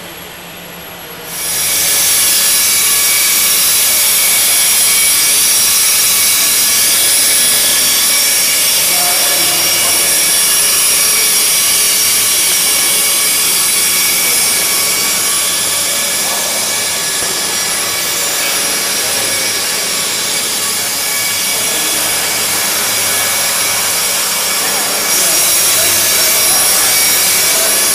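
Small electric motor of an indoor RC model aircraft running close by with a steady high-pitched whine. It starts suddenly about a second in and holds at full power.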